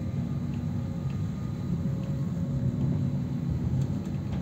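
Passenger train in motion, heard from inside the carriage: a steady low rumble with a faint hum.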